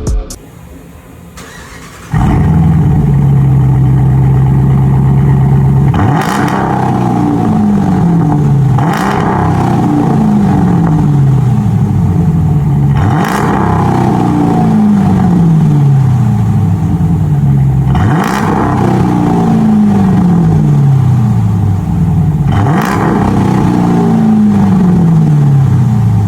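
Dodge Durango R/T V8 through a custom exhaust with an X-pipe and Carven R mufflers. The engine comes in loudly about two seconds in, idles briefly, then is revved sharply five times, each rev falling back toward idle.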